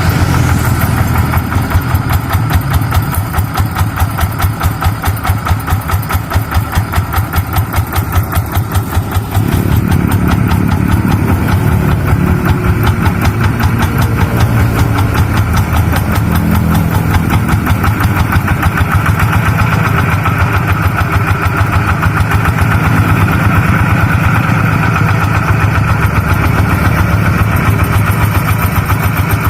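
Tractor engine running with an even, rapid chugging. It grows deeper and louder about nine seconds in.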